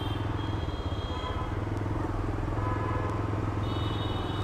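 TVS Raider 125's single-cylinder engine running steadily as the motorcycle rides through city traffic, with faint horns from other vehicles sounding a few times, most clearly near the end.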